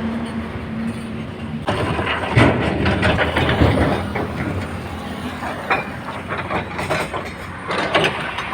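Komatsu excavator's diesel engine running while loaded stone clatters and knocks into a tipper truck's body. A dense run of clattering starts about two seconds in, and more knocks come near the end.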